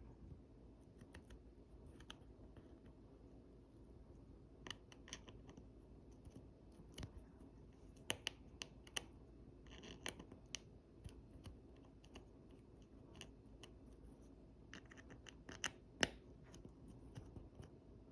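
Faint, scattered clicks and scrapes of a small precision screwdriver unscrewing the tiny screws inside an opened iPhone 11 Pro, with busier clusters partway through and near the end.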